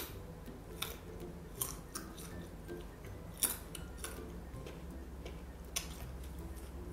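Crisp crunching and chewing of firm green fruit slices close to the microphone, with a sharp crunch about once a second, the loudest about three and a half seconds in.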